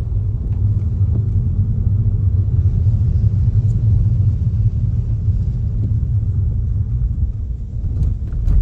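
Car cabin rumble of tyres and suspension over a rough, potholed road, low and steady, with a few small knocks near the end.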